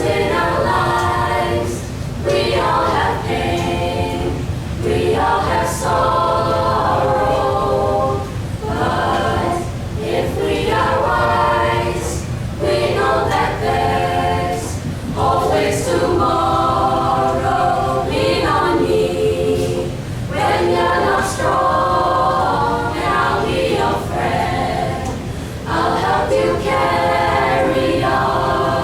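A vocal group singing a cappella in harmony, several voices together in phrases of a few seconds.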